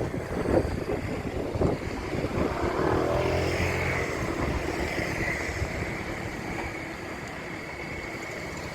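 A train running past: a few wheel clacks over the rail joints in the first two seconds, then a steady running rumble with a high tone that slowly fades as it goes away.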